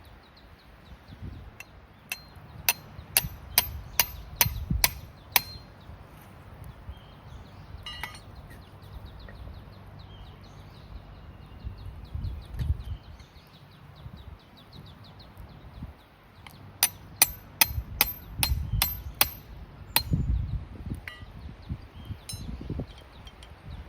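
Hammer striking metal with a ringing clink, in two runs of about seven quick blows each, roughly two a second: one a couple of seconds in, the other past two-thirds of the way through.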